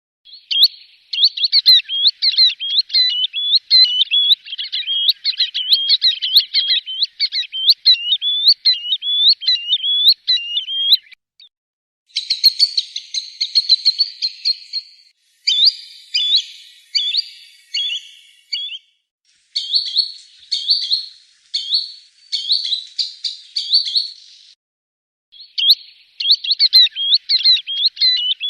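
Green sandpiper calling: rapid runs of short, high whistled notes, in several stretches broken by brief silences about 11 seconds in and again near 25 seconds.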